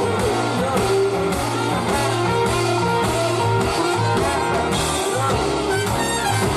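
Live band music with guitar and drums, the players soloing over one another in an instrumental stretch.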